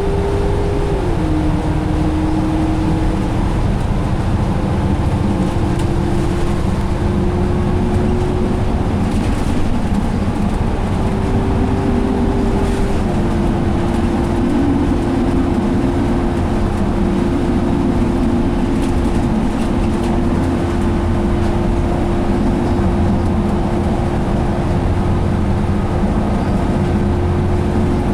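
A 2017 Alexander Dennis Enviro500 double-decker bus running at speed, heard from inside: steady diesel drone and road rumble from its Cummins ISL engine and Allison transmission. A whine runs over it, dropping in pitch about a second in and again about thirteen seconds in, then holding steady.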